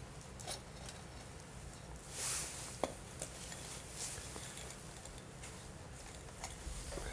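Wood fire crackling, with scattered sharp pops and a brief hiss about two seconds in.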